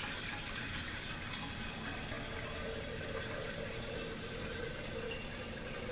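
Tap water running steadily into a glass coffee carafe as it is rinsed out with clean water.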